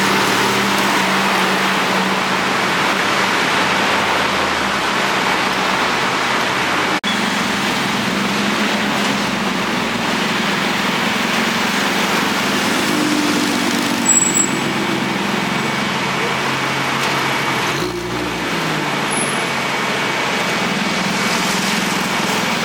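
Steady city road traffic: car engines running and tyre noise, cut off sharply and resuming about seven seconds in and again near the end, with a brief high squeal midway.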